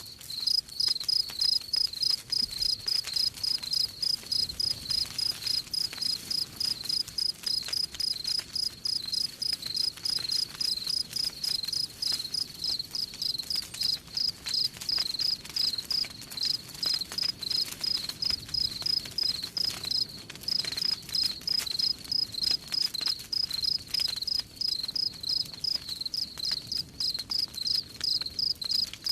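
Crickets chirping steadily in a fast, even rhythm, about three high chirps a second, over faint crackling of a campfire.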